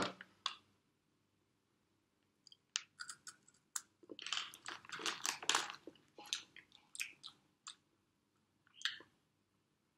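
A person biting into and chewing a crunchy stick-shaped snack: a run of crisp crunches starting a couple of seconds in, densest in the middle, then a few scattered bites near the end.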